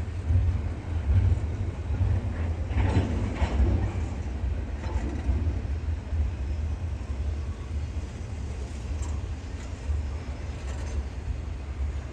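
Low rumble of a freight train rolling by, with gusty wind buffeting the microphone.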